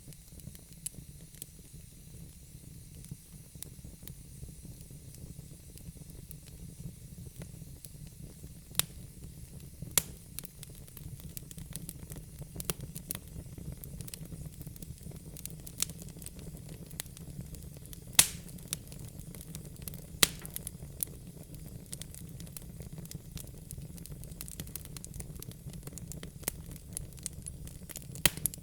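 Wood fire burning in a fireplace: a low steady rumble of flames with scattered sharp crackles and pops, more frequent near the end.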